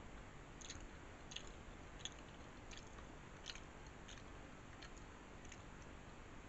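A person chewing a mouthful with the mouth closed: faint, soft mouth clicks coming at a steady pace of roughly one every 0.7 seconds.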